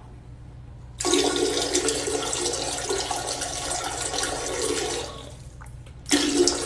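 Rushing water. It starts abruptly about a second in and runs for about four seconds, then comes back in a short second spell near the end, over a low steady hum.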